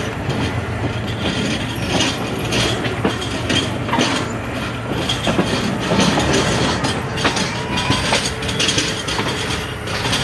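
Pakistan Railways rail car train running along the track: a steady rumble with its wheels clacking over rail joints at irregular intervals.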